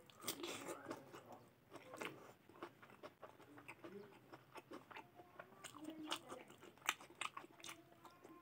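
Close-up chewing of raw cucumber and rice: irregular crunches and wet mouth clicks.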